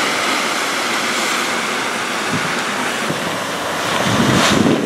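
Ocean surf from a hurricane swell breaking steadily on the beach, with wind on the microphone; the rush grows louder briefly near the end.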